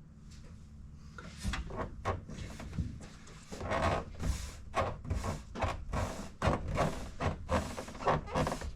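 Car interior trim pieces being handled and pressed into place against the headliner: a run of irregular rubbing and knocking noises, sparse at first and busier from about three and a half seconds in.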